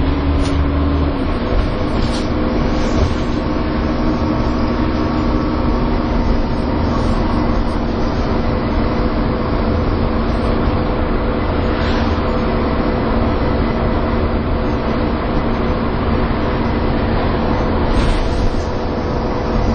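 Dennis Trident 2 double-decker bus under way, its drivetrain giving the steady whining 'hoover' sound over the engine's rumble. The whine steps down in pitch about a second in, then holds steady, with a few faint rattles.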